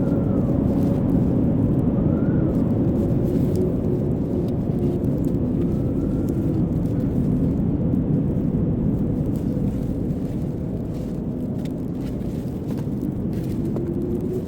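Blizzard wind blowing hard: a dense, steady low rush with faint whistling tones that rise and fall.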